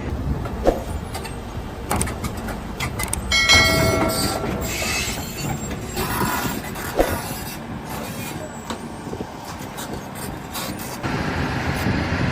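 Heavy vehicle noise with repeated metallic clanks and knocks, and a brief high squeal about three and a half seconds in; voices are faintly mixed in.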